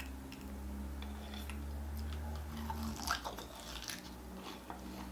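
Close-miked chewing and biting of salt-grilled pork rib meat, with a few short clicks, the sharpest about three seconds in.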